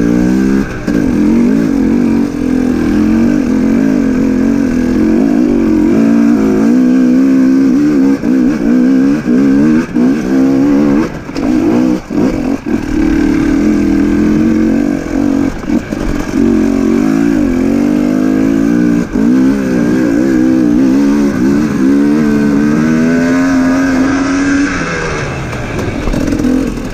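Dirt bike engine revving hard and unevenly under load on a steep technical climb, its pitch rising and falling as the throttle is opened and chopped again and again, with several brief drops. It settles lower near the end.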